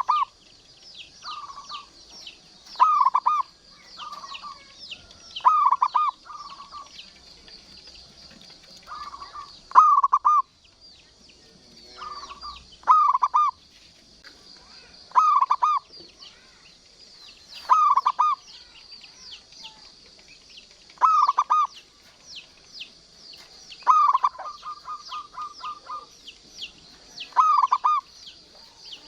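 Local zebra dove (perkutut) cooing in short, bubbling phrases about every two to three seconds. Near the end one phrase runs into a fast string of quick repeated notes. A steady, fainter high chirping carries on underneath.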